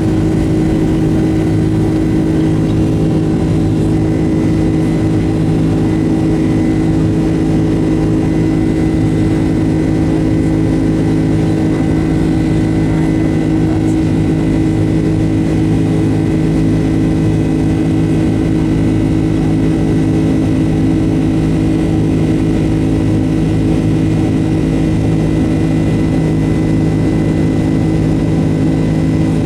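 Boeing 767-200's twin jet engines running steadily, heard from inside the passenger cabin as a constant hum of several steady tones with a thin high whine, holding one pitch throughout.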